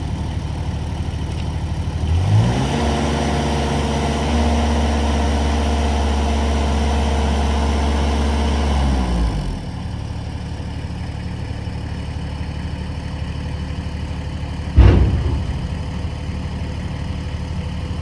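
A heavy machine's engine running at idle, revving up for about seven seconds and then dropping back to idle. A sharp thump near the end.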